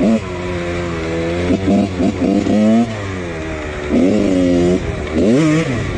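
1999 Husqvarna CR125 two-stroke dirt bike engine being ridden hard, its revs climbing and dropping again and again as the throttle is opened and closed, with a quick rev up and down a little after five seconds.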